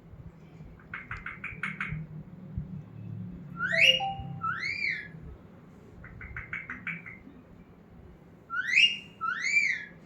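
A pet parrot calling: a quick run of about six clipped chirps, then two loud whistles that each rise and fall. The pattern comes twice, about five seconds apart.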